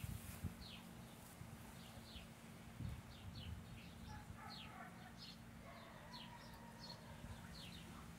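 Faint birdsong: short high chirps, each falling in pitch, repeating about twice a second, with a second bird's lower warbling notes in the middle.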